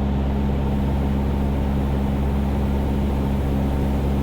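Cessna 172's piston engine and propeller running steadily in flight, heard from inside the cabin; the pitch holds even throughout.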